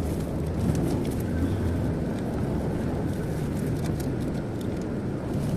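Steady road and engine noise of a car driving, heard from inside the cabin, with a few faint scattered ticks.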